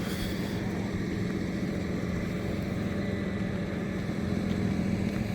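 Steady low drone of a car's engine and road noise, heard from inside the moving vehicle.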